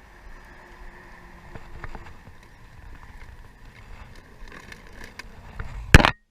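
Light clicks and rustles of plastic toys being handled over a quiet background, then one loud bump about six seconds in, after which the sound cuts out.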